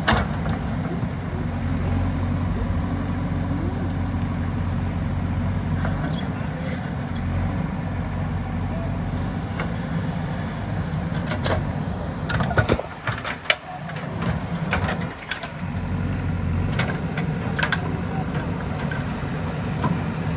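JCB 3DX backhoe loader's diesel engine running steadily at work, with a few sharp knocks and a short dip in the engine note about two-thirds of the way through.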